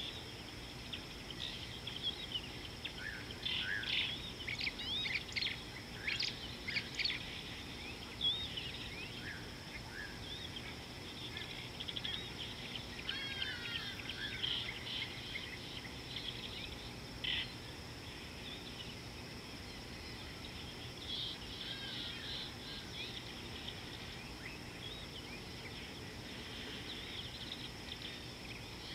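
Wild birds chirping and whistling in scattered bursts, busiest in the first several seconds and again briefly later, over a steady high hum.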